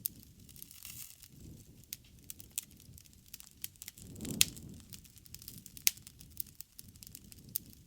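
Wood fire crackling with irregular sharp pops, the loudest about four and a half seconds in, over a low rush of flame that swells briefly around the same moment.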